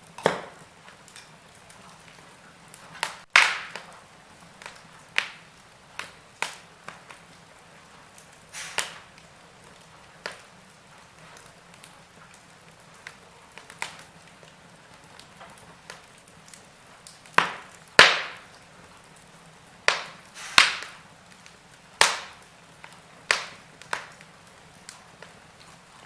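Wood fire in a fireplace crackling, with irregular sharp pops of burning wood over a faint hiss; the loudest snaps come about three seconds in and in a cluster from about 17 to 22 seconds.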